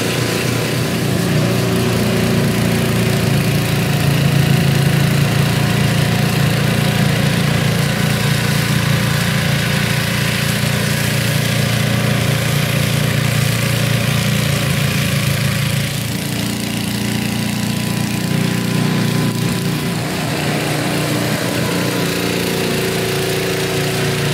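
Toro 826 two-stage snowblower running steadily on its 8 hp Briggs & Stratton single-cylinder engine, a continuous low engine drone that dips slightly about two-thirds of the way through.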